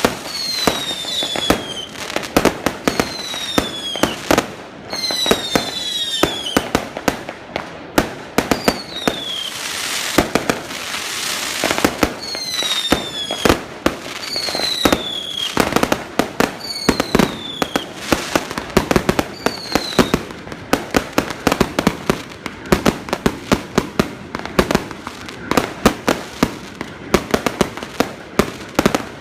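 Fireworks going off: many sharp bangs and crackles, with whistling shells giving falling whistles of about a second each, repeated over the first twenty seconds. There is a few seconds of hissing about ten seconds in, and the bangs come thicker and faster toward the end.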